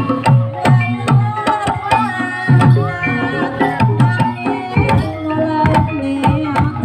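Live Javanese gamelan music for a barongan dance: kendang hand-drum strokes, each low stroke dropping in pitch, over ringing metallophone tones.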